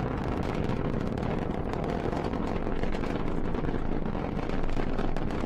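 Falcon 9 rocket's first-stage engines during ascent: a steady, loud rumbling roar with dense crackle.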